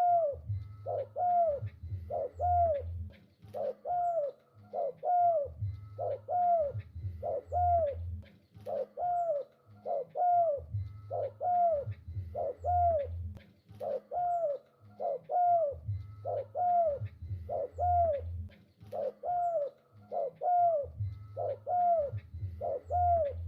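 Spotted dove (tekukur) cooing steadily, a short arched coo repeated about every second in regular phrases. A low hum comes and goes underneath every few seconds.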